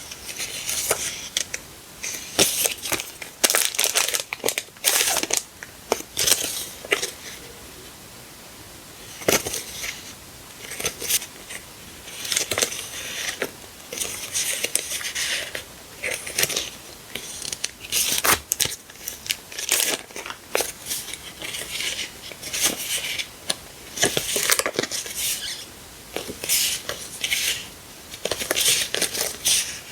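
Sticker sheets and their plastic and paper packaging being handled: irregular bursts of crinkling and rustling with short pauses.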